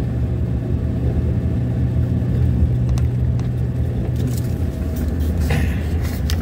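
Motor vehicle engine running steadily at cruising speed, a low hum with road noise, with a few light knocks near the end.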